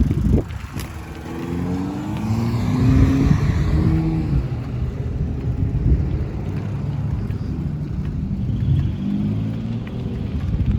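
Passing road traffic: a car engine accelerating, its pitch rising over a couple of seconds, then another vehicle's engine near the end, over a steady low road rumble.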